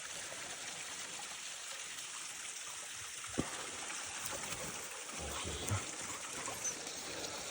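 A stream running with a steady rushing hiss. There is a single sharp knock about three and a half seconds in, and a few soft low thumps in the second half.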